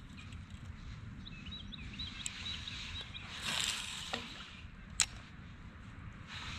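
Small birds chirping, a quick run of short calls over the first three seconds, against a steady low outdoor rumble. About three and a half seconds in there is a short rushing swish, and near five seconds a single sharp click.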